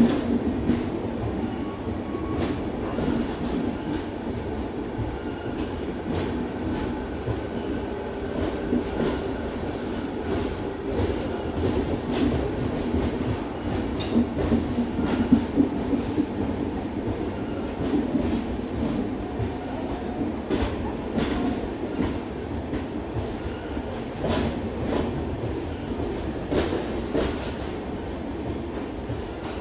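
Passenger coaches of an arriving Indian Railways express rolling past along a platform: a steady wheel-on-rail rumble with clicks as the wheels cross rail joints, the clicks coming more often in the last third.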